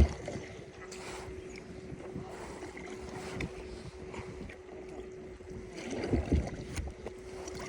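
Wind buffeting the microphone, with a few low thumps about six seconds in and a faint steady hum underneath.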